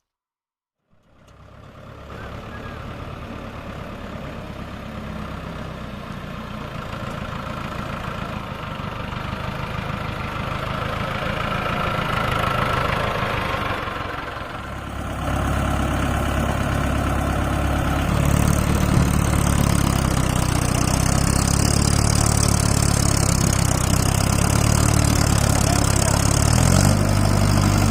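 Heavy diesel engine running, fading in after a moment of silence and growing louder. About halfway it becomes louder and deeper, and a steady hiss joins it a few seconds later.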